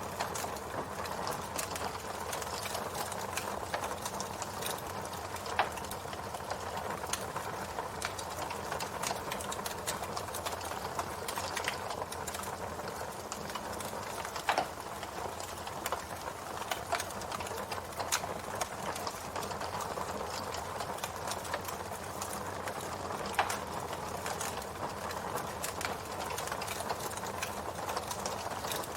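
Campfire burning, wood crackling steadily with a dense stream of small ticks and a few louder pops.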